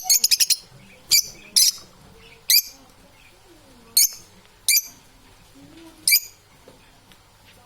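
Parrots calling: a quick run of sharp, high-pitched chirps right at the start, then single short chirps every second or so, with faint lower warbling between them.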